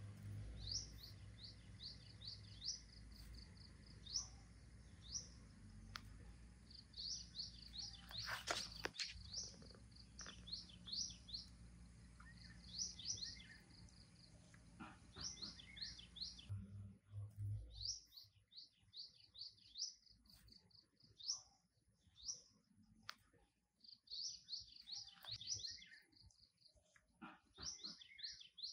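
Small birds chirping in quick runs of short, high, falling chirps, faint and repeated throughout. A low hum underneath stops about halfway through.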